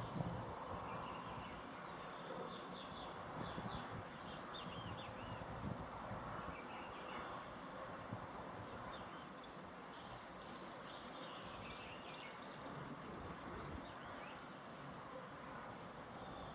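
Several songbirds chirping and twittering in bursts, over a steady background hiss of outdoor noise.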